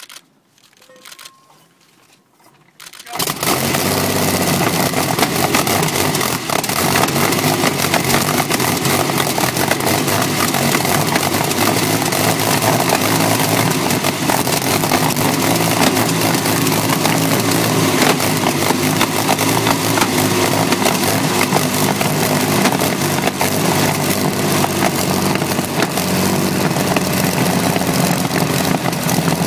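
The Sunbeam 350HP Bluebird's 18.3-litre Sunbeam Manitou V12 aero engine fires up about three seconds in, then runs loudly and steadily on its open exhaust stubs.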